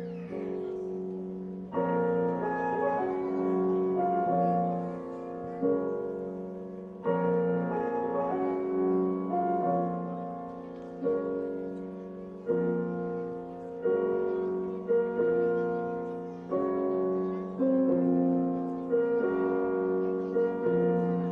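Slow, solemn piano music: chords struck every one to two seconds and left to ring and fade.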